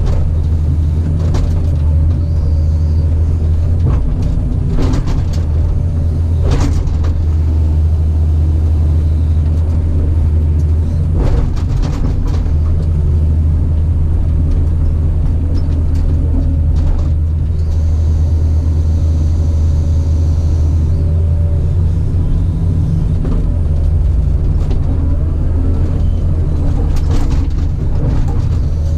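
Caterpillar 973C track loader's diesel engine running steadily under work, with occasional sharp clanks and knocks from the machine working.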